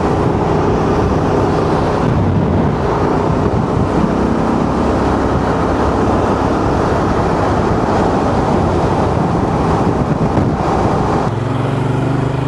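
Honda Transalp's twin-cylinder engine running under way, under a steady rush of wind on the microphone. The engine note drops to a lower pitch about eleven seconds in as the bike slows.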